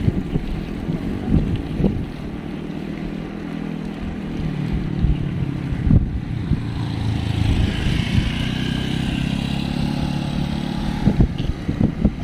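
Wind buffeting the microphone on a bicycle riding downhill, with a steady low engine hum from motor traffic alongside.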